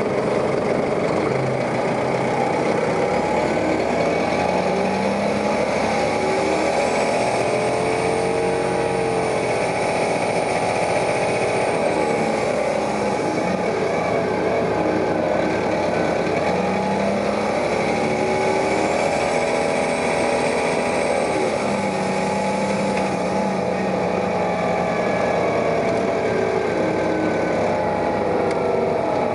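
New Flyer articulated bus running, its engine and drivetrain rising in pitch as it accelerates twice, about four and seventeen seconds in. Each time a high whine rises, holds, then falls away.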